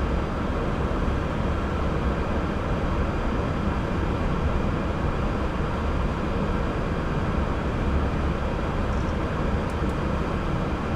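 Steady cockpit noise of an Airbus A340 on the ground: a low rumble under an even ventilation hiss, with faint steady tones running through it.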